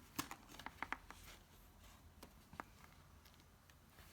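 Faint, sharp clicks and taps of a necklace being handled: a quick cluster of five or so in the first second, then one more about two and a half seconds in.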